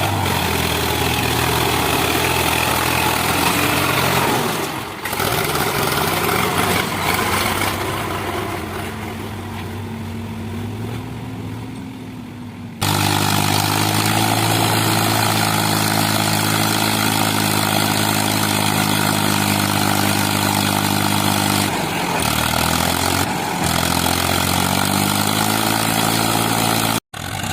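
Trakstar tractor's diesel engine running steadily, its pitch wavering and the sound fading somewhat in the first half. Partway through it cuts abruptly to a louder, steady engine note, and near the end the pitch dips and recovers twice.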